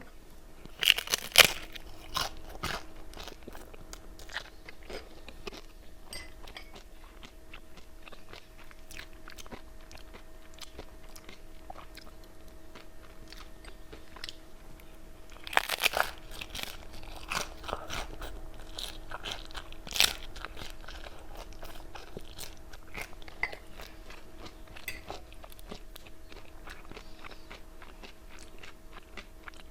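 Crisp fried wonton chips being bitten and chewed close to the microphone. There are loud crunching bites about a second in and again around the middle, with crunchy chewing between them.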